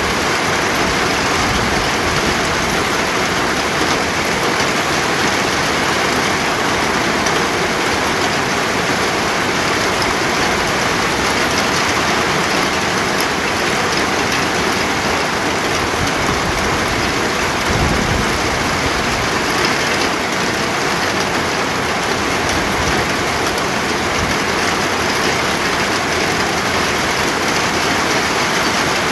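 Steady heavy rain falling, a dense even hiss with a brief low rumble about two-thirds of the way through.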